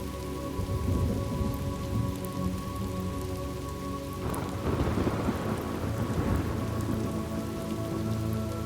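Thunderstorm ambience: steady rain falling, with a low thunder rumble about a second in and a louder thunderclap that rolls out from about four seconds in. A soft, steady drone of sustained tones runs underneath.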